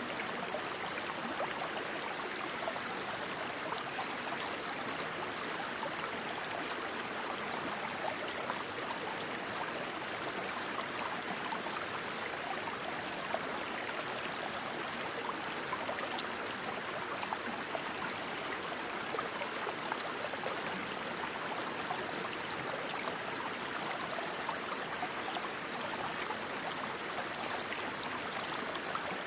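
Steady flowing stream water, a continuous rushing and trickling. High, short chirps recur over it every second or so, with a brief trill twice.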